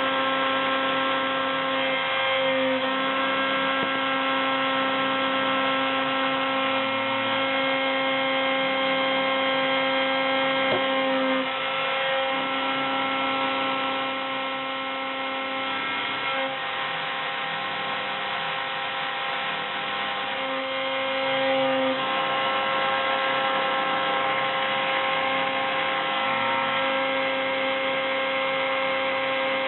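CNC milling machine running with a 3 mm solid-carbide fishtail end mill, milling 0.8 mm copper foil: a steady mechanical whine of several pitches. Its lower tone breaks off and comes back several times, and it is a little quieter from about 12 to 20 seconds in.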